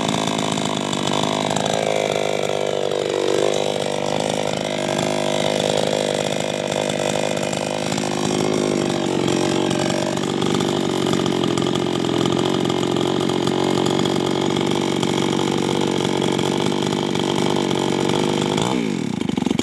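Two-stroke chainsaw running at full throttle cutting wood, its pitch dipping briefly twice as the chain bites. Near the end the throttle is released and the revs fall away.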